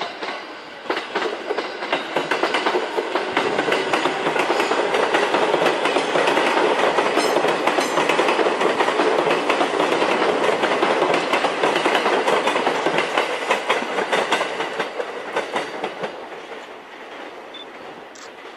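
A train passing through the station close by, its wheels clattering over the rail joints. The sound swells over the first few seconds, holds, and fades away near the end.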